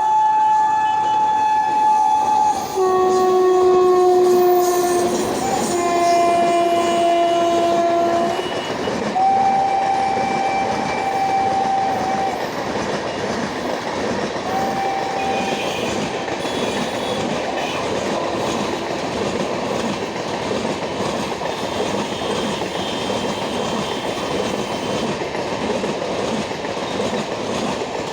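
Rajyarani Superfast Express passing at speed without stopping, its locomotive horn sounding several long two-note blasts for the first eight seconds, then a long single-note blast and a short toot around fifteen seconds in. Underneath runs the steady rumble and clickety-clack of the coaches' wheels over the rail joints.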